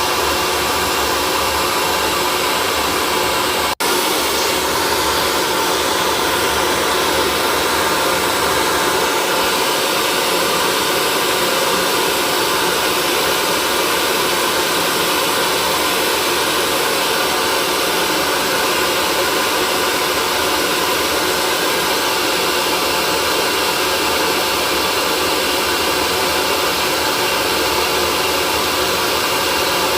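Hair dryer blowing steadily, a continuous even whoosh with a faint steady hum. It cuts out for an instant about four seconds in.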